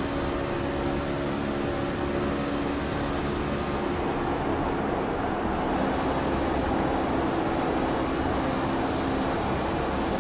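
Truck engines running steadily, a continuous drone whose tones shift slightly about halfway through.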